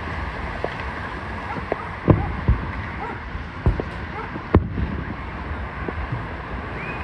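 Fireworks going off: a string of sharp bangs, the loudest about two seconds and four and a half seconds in, over background crowd chatter.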